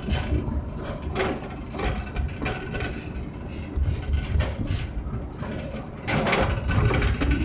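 Small forest-railway train running along the track: a steady low rumble from the wheels, with frequent clicks and knocks as the carriages rattle.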